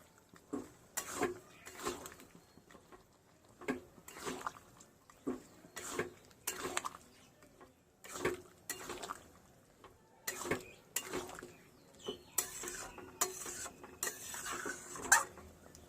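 Spatula stirring fried chicken pieces into thick sauce in a cooking pan, with repeated irregular clinks and scrapes against the pan, and a short stretch of hiss near the end.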